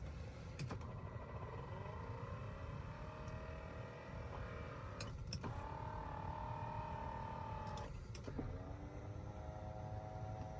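Electric accessory motors of a 2000 Mercedes-Benz E430 whining in three separate runs, each starting and stopping with a click relay-like; the first rises in pitch as it gets going. A low steady rumble runs underneath.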